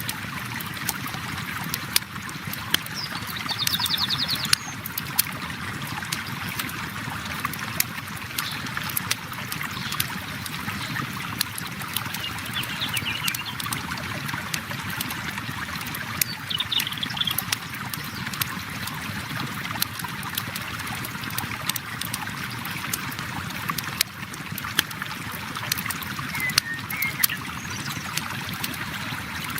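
River water flowing steadily, with a campfire crackling in frequent sharp pops over it. A few brief bird chirps come through now and then.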